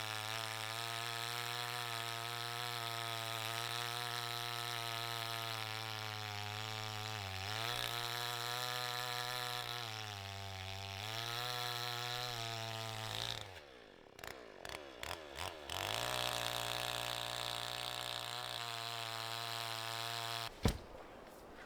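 Two-stroke chainsaw engine running at a steady speed, its pitch dipping briefly a few times. Past the middle its speed swings up and down for a few seconds. Near the end it cuts off with a sharp click.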